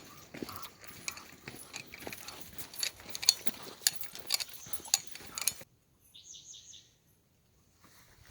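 Footsteps with the jingling and clicking of a dog's metal collar tags on a walk. It cuts off abruptly about five and a half seconds in, followed by a short run of about five quick, high chirps.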